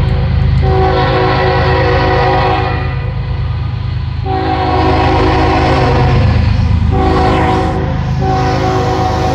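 Freight train's diesel locomotive horn sounding the grade-crossing signal: two long blasts, a short one and a long one, the last still going at the end. Under it runs the steady low rumble of the diesel locomotives.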